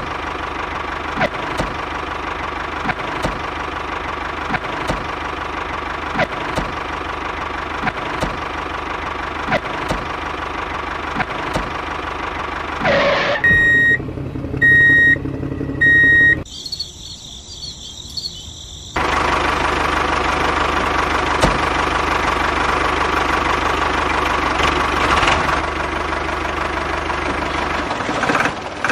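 Tractor engine running steadily. Near the middle it drops away for three short, evenly spaced beeps, then comes back louder for the rest.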